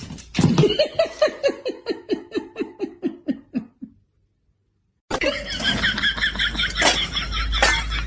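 A long run of fast "ha-ha-ha" laughter, about five pulses a second, sliding steadily down in pitch before it stops. After a second's pause a different, busier sound starts, with quick high repeated chirps.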